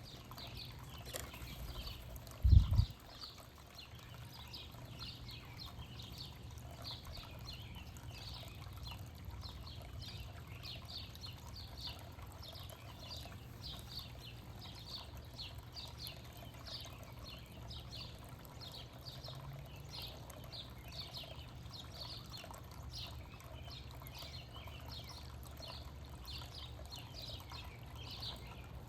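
Small birds chirping, short high notes repeated several times a second. About two and a half seconds in there is a single brief loud low thump, and a steady low rumble runs underneath.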